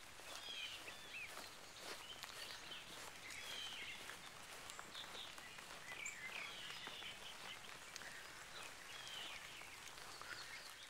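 Faint, scattered bird chirps over quiet outdoor background noise.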